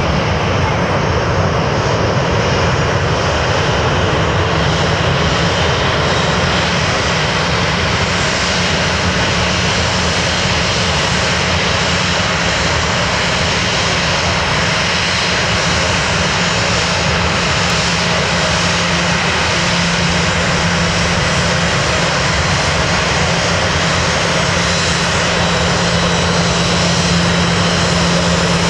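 Airliner engines running loud and steady, a dense rush with a low hum that grows stronger over the second half.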